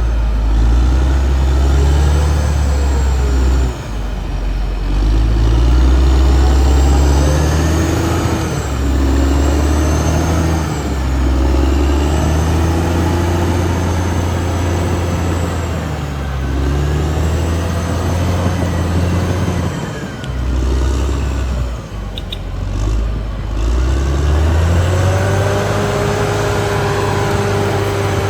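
Caterpillar D6R XL bulldozer's diesel engine working under load, its pitch rising and falling every few seconds as it revs up and eases off.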